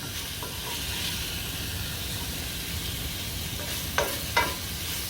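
Cubed chicken sizzling as it fries in a pan, with a utensil knocking against the pan twice about four seconds in.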